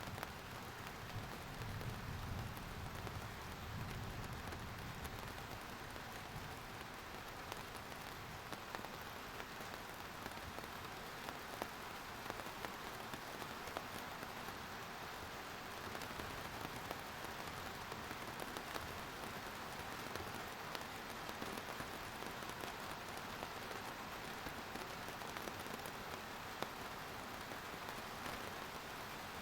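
Steady rain falling on a surface, a continuous patter with many individual drops ticking sharply through it.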